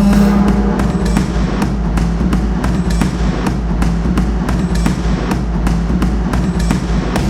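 Drums beating a steady, even rhythm of sharp strikes over a constant low rumble.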